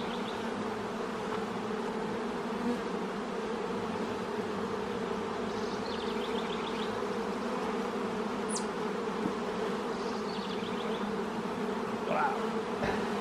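Honeybee colony buzzing from an open hive: a steady, even hum of many bees in flight and on the frames.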